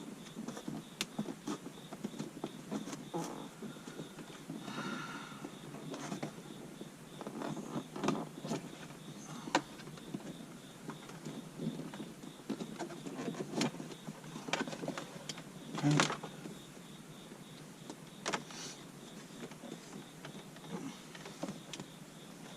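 Hands tucking a dash cam wire into the gap between a car's headliner and the plastic trim. Scattered clicks and rubbing of cable against plastic and fabric, a short squeak about five seconds in and a louder knock about sixteen seconds in.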